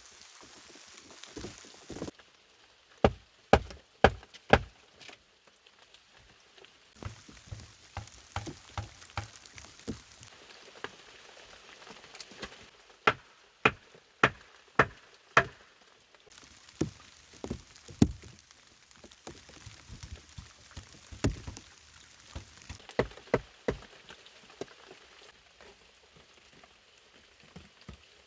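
Steady rain falling, with sharp knocks in short runs of three to five, about two a second.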